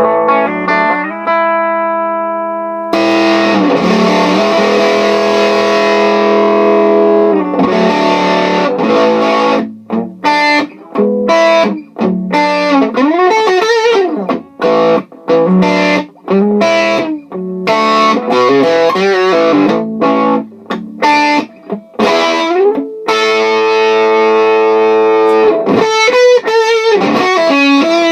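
Electric guitar, a Historic '58 Les Paul, played through a Sola Sound Green Bastard MKII fuzz pedal into a Savage Rohr amp. A chord rings thinner at first, then turns into full fuzz about three seconds in, showing how the pedal cleans up. Fuzzed riffs and chords follow, with string bends and short breaks between phrases.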